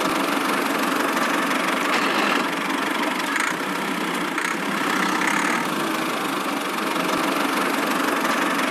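Small motor and drivetrain of a miniature DIY tractor running steadily.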